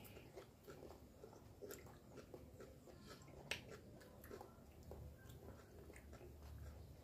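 Faint chewing of food, with scattered small clicks and one sharper tick about three and a half seconds in.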